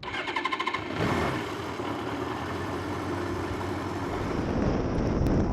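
Honda motorcycle engine running. A fast pulsing in the first second gives way to a steady run that grows slightly louder and deeper toward the end.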